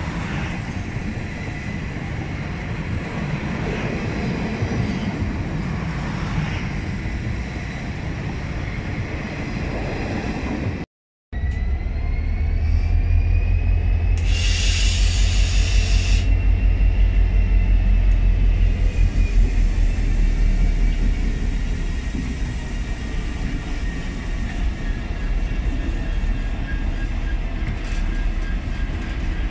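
A pair of Régio 2N double-deck electric multiple units rolling past with a steady rumble. Then a Vossloh Euro 4000 diesel locomotive hauling car-carrier wagons passes close by, its EMD V16 two-stroke diesel throbbing loudly and evenly. A brief shrill high sound comes about fourteen seconds in.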